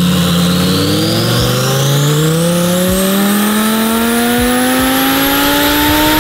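Twin-turbo Audi R8 V10 making a full-throttle tuning pull on a hub dyno. The engine note climbs steadily in pitch as the revs rise, with a high whine climbing along with it.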